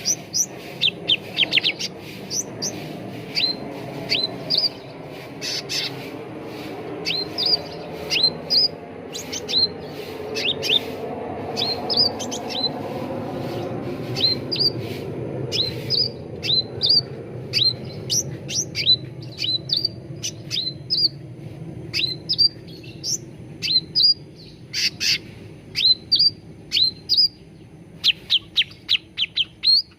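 Cucak ranting songbird calling: short, sharp, downward-slurred chirps in quick clusters of two to four, repeated again and again, over a low steady background hiss.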